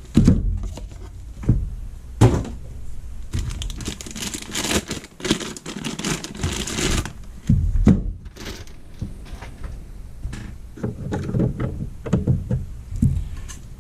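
A soldering station's main unit being unpacked by hand: a few thumps as the box and unit are handled and set down, and a few seconds of rustling packaging near the middle.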